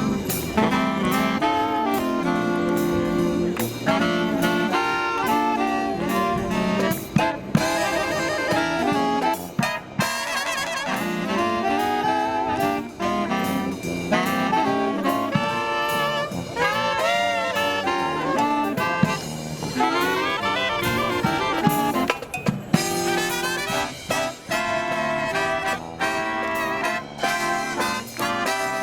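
Live marching brass band playing an upbeat Christmas arrangement, with trumpets, trombones and saxophones over a steady drum beat.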